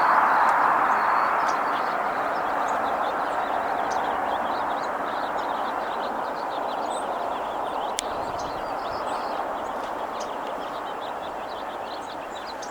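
A steady rushing noise, most likely a passing vehicle, fading slowly away, with faint small bird chirps above it.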